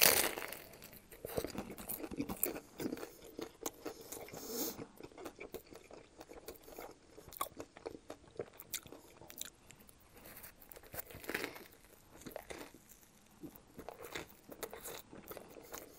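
A big bite into a toasted Subway sub with potato chips folded inside, the crust and chips crunching loudly, then close-up chewing with many small irregular crunches.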